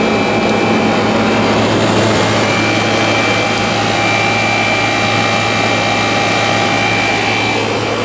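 Vintage room air conditioner running steadily, with a rush of air from its fan over a steady low compressor hum and a faint high whine. It is cooling and still pulling moisture from the air.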